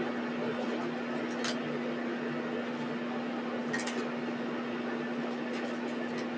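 A steady hum with a constant hiss, like a fan or other small appliance running, with a few faint clicks.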